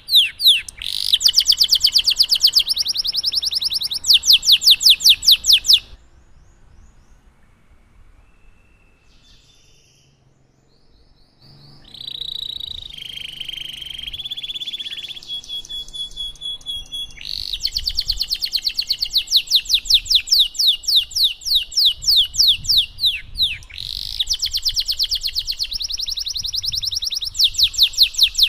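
Domestic canary singing: long, rapid rolling trills of repeated high chirps, broken by a pause of a few seconds about a quarter of the way in, then softer warbling before the fast trills resume.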